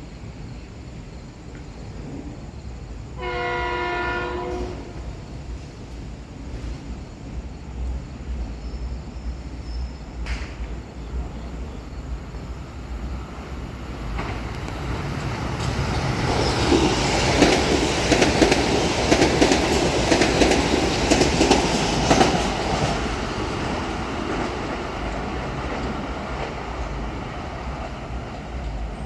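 A Metro-North electric commuter train sounds its horn once, a blast of about a second and a half, then passes. Its wheels rumble and clatter over the rail joints, building to a peak past the middle and fading away near the end.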